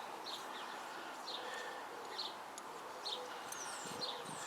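Birds chirping: short curved calls about once a second, joined by higher chirps in the second half, over a faint steady hum.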